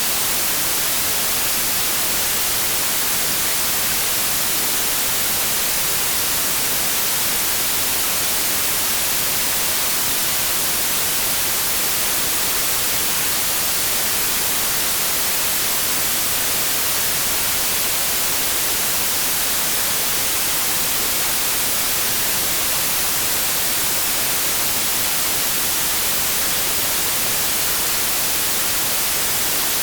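Pure white noise: a steady, unchanging hiss, strongest in the high end, with no other sound.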